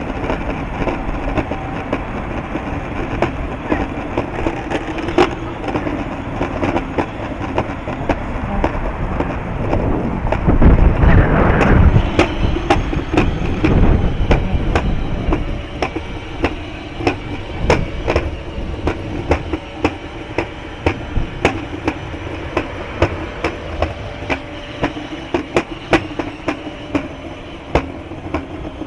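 Wind buffeting the microphone, surging loudest about ten to fourteen seconds in, over a steady rolling rumble with a regular series of sharp clicks that becomes clearest in the second half.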